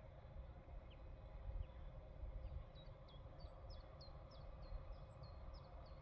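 A songbird singing: a few scattered high chirps, then from about halfway a quick run of short, falling high notes, about three a second, over a faint low rumble.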